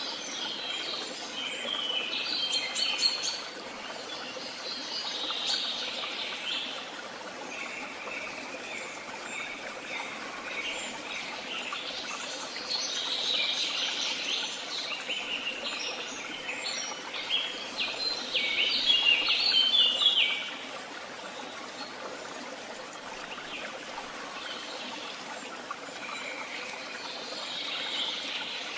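Songbirds singing, with chirps and quick trilled phrases coming in several bouts over a steady background hiss; the densest and loudest run of song comes about two-thirds of the way through.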